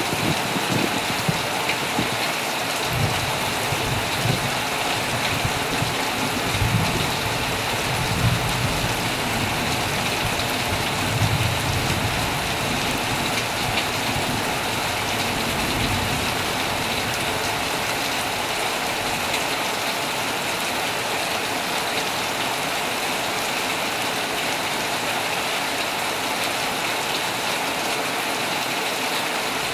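Heavy rain falling steadily on a tent, with low rolling thunder through the first half that fades away.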